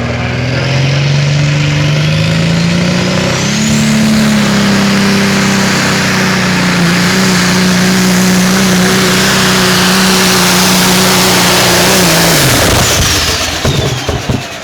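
A turbocharged diesel pulling engine revs up during a pull, with a high whistle rising alongside it. It holds a steady, loud high-rpm note for several seconds, then drops off sharply about twelve seconds in, with a falling whistle and some crackling as it winds down.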